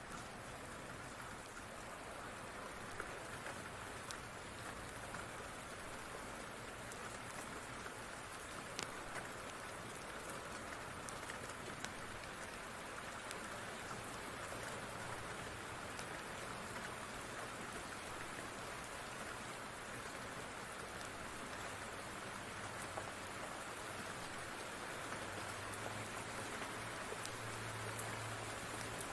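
Steady rain falling, with sharp pops and clicks now and then, and a low rumble building near the end.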